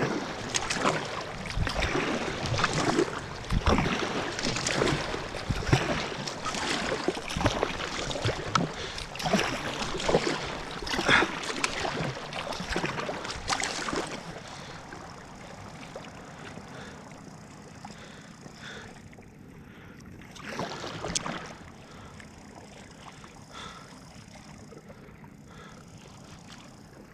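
Kayak paddle strokes splashing and water sloshing against the hull, with irregular splashes for the first half. Then it settles to quieter lapping, with one more brief splash about two-thirds of the way through.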